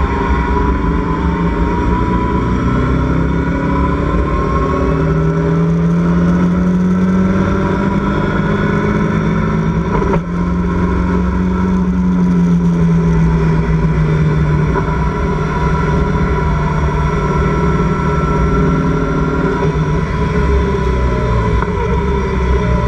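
Locost race car's engine running hard under load, heard from the open cockpit with steady wind rumble. The pitch climbs slowly, breaks briefly about ten seconds in for a gear change, then holds and eases off.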